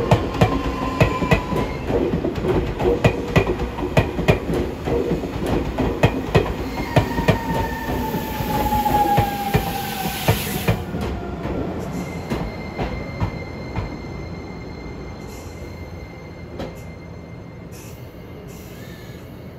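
Keio 1000-series electric train braking into the station and coming to a stop: wheels clicking over rail joints, the clicks spacing out as it slows, with a falling whine as it brakes. A hiss about ten seconds in, then the stopped train gives a quieter, steady high hum.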